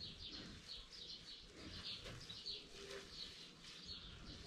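Faint chirping of small birds: many short, high notes in quick succession.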